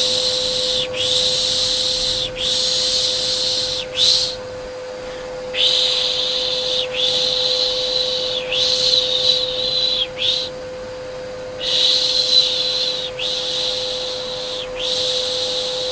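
Rhythmic shushing ('shh, shh, shh') in groups of three with a short pause between groups, over a steady vacuum cleaner hum, as white noise for calming a baby to sleep.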